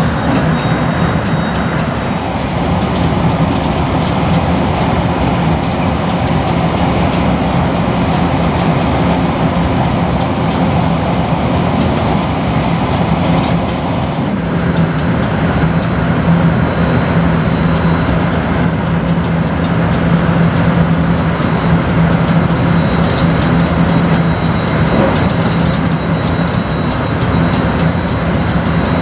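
Inside a JR West Shinkaisoku (special rapid) electric train running at speed. Steady wheel-and-rail running noise with a constant low hum and a faint high whine.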